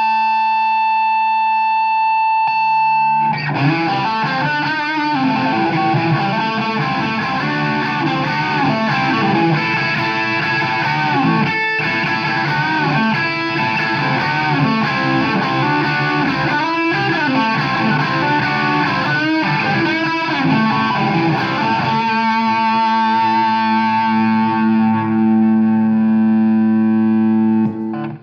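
Electric guitar played through a Marshall AFD100 valve amp head with the gain at about 80%, giving a heavily overdriven, crunchy rock tone. A held note rings for about three seconds, then a stretch of busy riffing and lead lines, then a long sustained ringing held note that is cut off right at the end.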